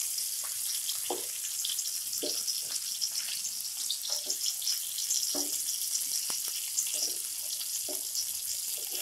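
Stuffed bitter gourds sizzling as they shallow-fry in oil in a nonstick frying pan: a steady crackling hiss. Over it come short scrapes and knocks, about once a second, from a wooden spatula turning the gourds over in the pan.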